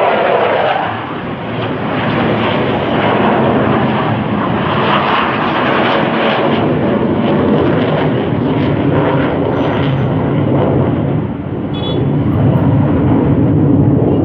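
Military fighter jets flying over, their jet engine noise loud and steady, easing briefly about a second in and again near the end before building back up.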